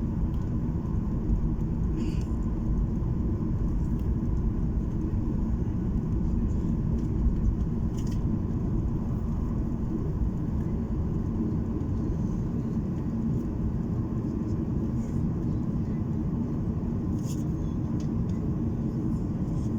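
Steady low rumble of an airliner's engines and rushing air, heard from inside the passenger cabin, with a few faint ticks now and then.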